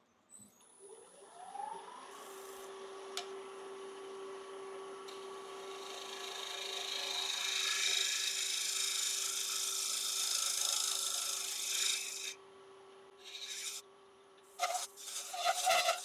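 Wood lathe spinning up, its whine rising for the first couple of seconds and then holding steady, while a round nose scraper scrapes the inside of a dry ash bowl. The scraping hiss builds, stops about twelve seconds in, and then comes back as a few short scrapes near the end.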